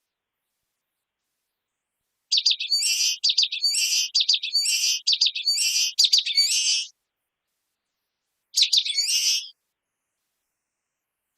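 Common waxbill (bico-de-lacre) singing. About two seconds in, it gives a quick run of short, high, repeated phrases lasting about four and a half seconds. After a pause of under two seconds, it gives one more phrase.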